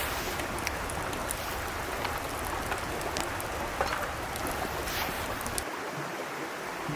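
Small mountain stream babbling: a steady rush of water with scattered faint ticks, its low rumble dropping away near the end.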